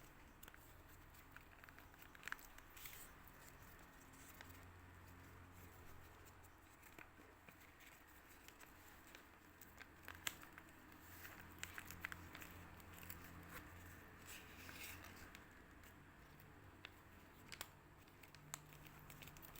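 Faint crinkling and rustling of a sheet of paper being folded and creased by hand, with scattered soft ticks and taps.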